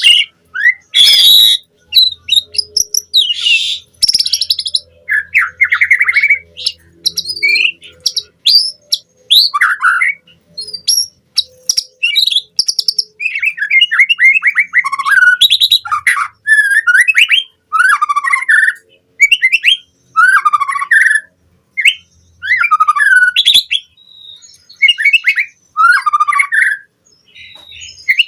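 White-rumped shama (murai batu) singing a fast, varied song: short phrases of quick sweeping chirps, whistles and trills, each about a second long, with brief pauses between them.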